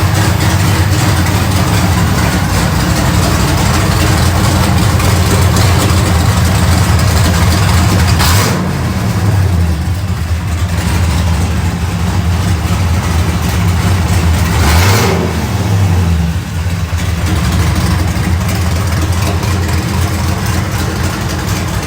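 A 392ci Gen III Hemi V8 idling on the engine dyno, briefly revved twice, about a third and about two-thirds of the way through.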